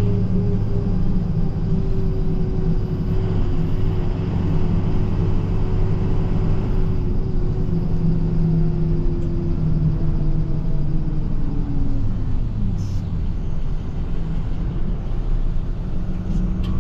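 Salt truck's engine running as it drives, with a steady low rumble and a whine that slowly falls in pitch, then drops away about twelve seconds in as the truck slows.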